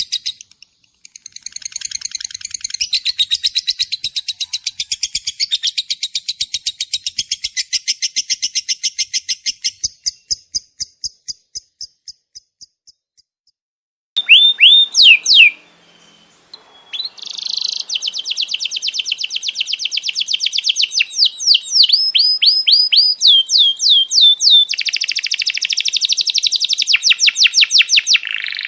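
Small songbird song: a fast trill of repeated high notes that fades out about twelve seconds in, then after a short pause loud downward-sweeping whistled notes alternating with dense rapid trills.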